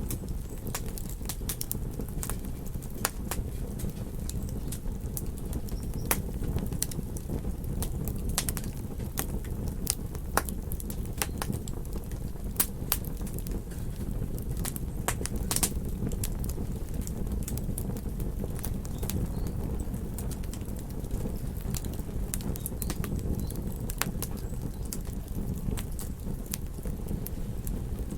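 Campfire crackling, with frequent irregular sharp pops and snaps of burning wood over a steady low rumble.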